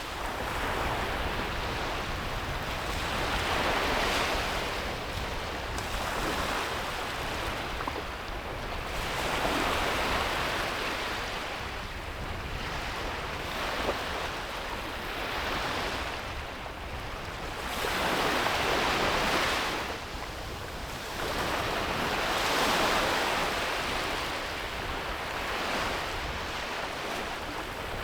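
Ocean waves breaking and washing up on a beach: a continuous surf wash that swells with each breaker every four to five seconds and ebbs between them.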